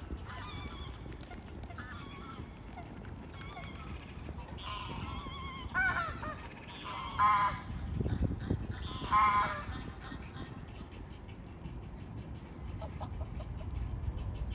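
Waterbirds calling with loud, rasping honks, goose-like, over a steady low background hum. There are softer calls in the first few seconds and three loudest honks at about six, seven and nine seconds in.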